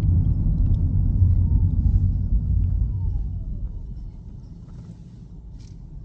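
Low road and engine rumble inside a moving car's cabin, loud at first and dying down about three seconds in.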